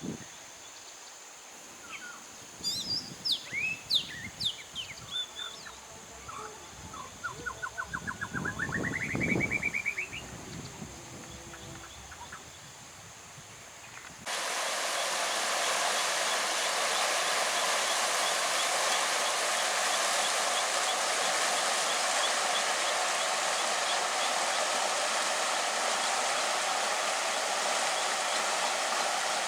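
Birds calling: scattered high chirps, then a quick run of rapid notes climbing in pitch, with gusts of wind buffeting the microphone. About halfway through, the sound cuts abruptly to a loud, steady rush of flowing water.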